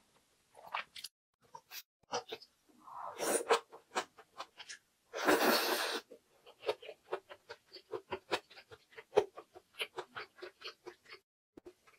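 Close-up mouth sounds of chewing green onion kimchi: many small wet clicks and smacks. There are two louder breathy rushes, one a few seconds in and a stronger, longer one about five seconds in.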